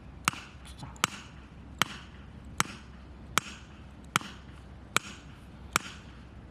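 Steady chopping: sharp, hard strikes at an even pace of about one every 0.8 seconds, eight in all, each with a brief ring.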